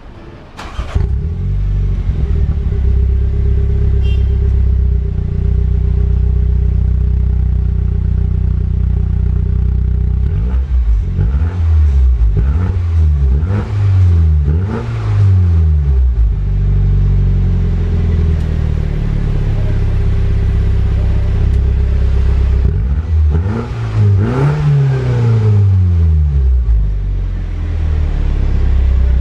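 F56 Mini Cooper S turbocharged four-cylinder through a Remus exhaust with the resonator deleted, starting about a second in and settling into a steady idle. It is then revved in a series of quick blips, returns to idle, and is revved again near the end.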